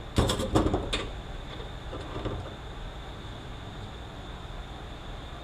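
A quick cluster of metallic clicks and clanks in the first second, then a few fainter taps around two seconds in: transmission internals being handled and removed during teardown. A steady shop hum with a faint high whine runs underneath.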